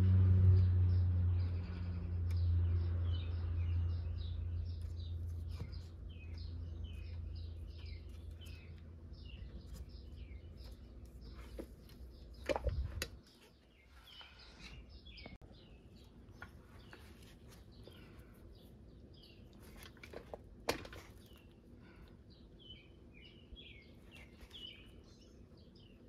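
Small birds chirping in the background throughout, while low background music fades out over the first half. Two sharp knocks, one about halfway through and one some eight seconds later.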